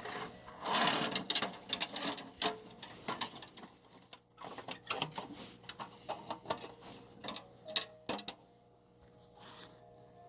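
Metal parts of a homemade fire pit being handled, clinking and rattling: a dense rattle about a second in, then scattered knocks and clinks that thin out near the end.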